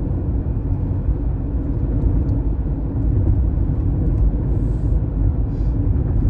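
Steady low rumble with no distinct events, like wind buffeting or road noise.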